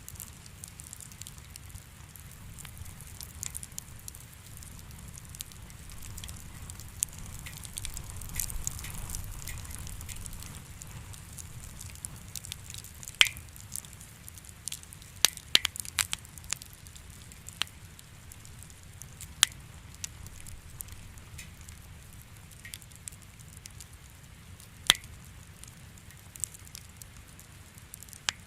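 Wood fire in a fireplace crackling, with sharp pops at irregular intervals over a low, steady rumble; the loudest pops come from about halfway through.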